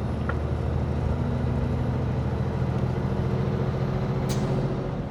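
Semi-trailer truck's engine running steadily at road speed, heard inside the cab together with road noise.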